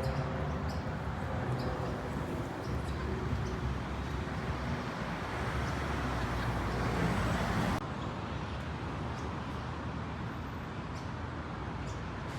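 Small boat's outboard motor running steadily, a low hum under a broad wash of noise. About eight seconds in, the sound abruptly turns quieter and duller.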